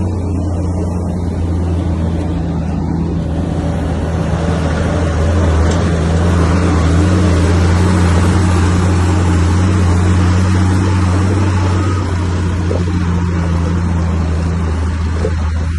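Bulldozer diesel engine running steadily with a deep, even hum, growing louder and noisier for several seconds in the middle before easing back.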